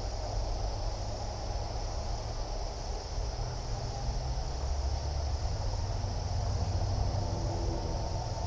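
Steady insect chorus, a continuous high shrill trilling, over a low steady rumble of outdoor background noise.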